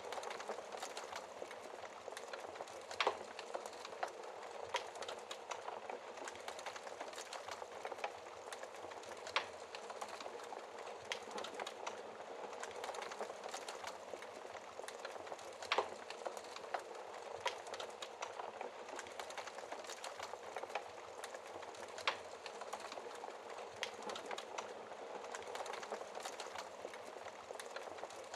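Wood fire burning in a fireplace: a steady soft hiss with frequent small crackles and a few louder sharp pops, about every six seconds.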